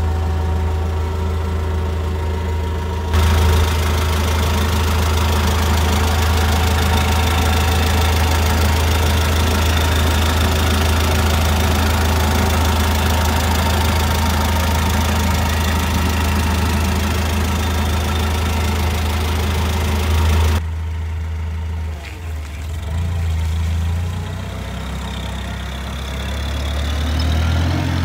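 NVG Master FL25 truck's engine running at idle, a steady low hum. From about three seconds in, a loud rushing noise runs over it and cuts off suddenly about twenty seconds in. The engine speed then rises and falls a little near the end.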